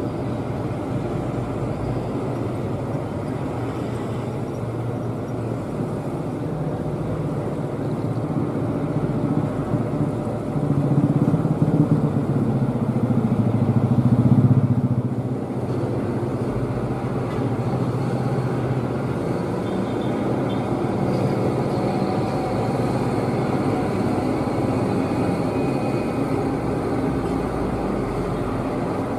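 Old truck's engine running hard under load, as on a steep climb, swelling louder for several seconds about a third of the way through before easing off.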